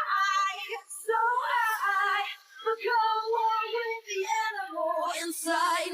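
Background music with a high voice singing a melody in short phrases.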